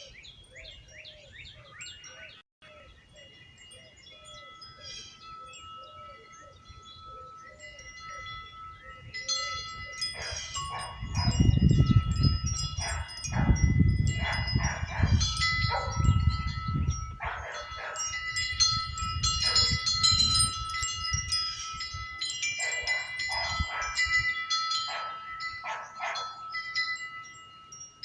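Wind chimes ringing, sparse and lingering at first. About ten seconds in they become a rapid jangle of overlapping strikes, with a low rumble of wind gusts on the microphone, then thin out again near the end. Birds chirp faintly underneath.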